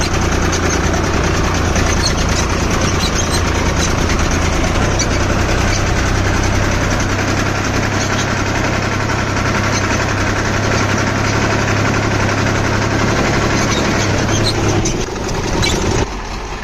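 A heavy diesel engine running steadily at a constant speed with an even low hum. Its sound changes about a second and a half before the end, then drops off sharply.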